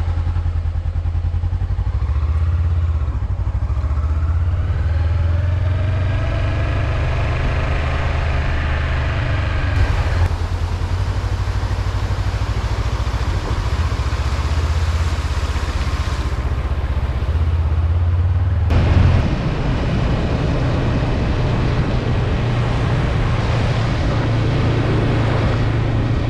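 Honda CB500F parallel-twin motorcycle engine running on the road, its pitch rising and falling as it accelerates, over a steady low rumble.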